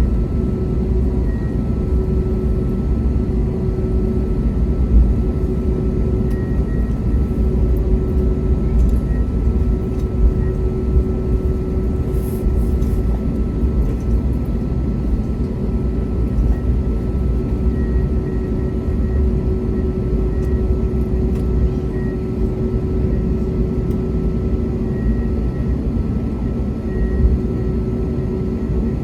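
Steady cabin noise inside an Airbus A321neo on the ground after landing: a low rumble with a constant mid-pitched hum over it.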